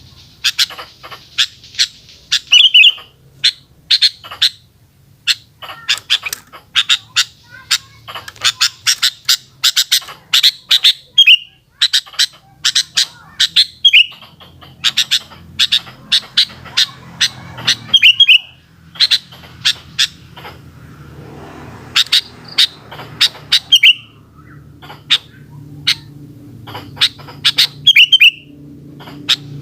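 Sooty-headed bulbul calling in a rapid string of sharp, short notes, with a slurred whistled note every few seconds. A low steady hum runs underneath and grows louder near the end.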